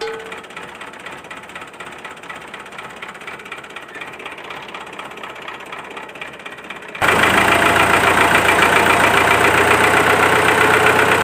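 Homemade miniature engine-and-water-pump model running with a fast mechanical rattle; about seven seconds in it suddenly becomes much louder and busier.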